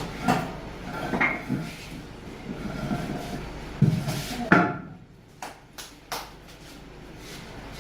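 A series of knocks and clunks from objects being handled and set down, the loudest about four and a half seconds in, followed by a few light clicks.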